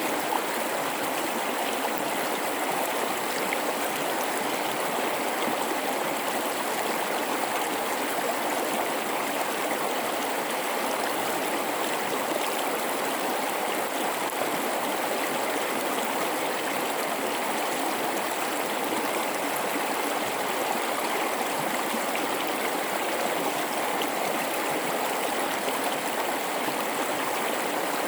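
A gorge river flowing over rocks in a steady, unbroken rush of water, with fine babbling and gurgling.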